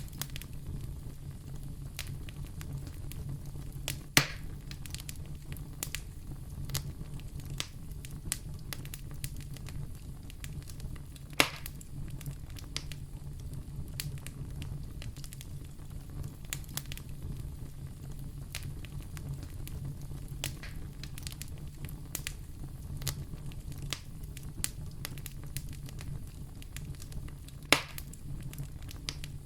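Wood fire burning in a fireplace: a steady low rumble of flames with frequent small crackles and three loud pops, about 4, 11 and 28 seconds in.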